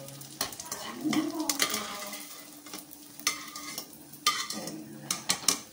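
Soya chaap pieces sizzling as they fry in hot oil in a pan, stirred with a utensil that knocks against the pan in several sharp clinks.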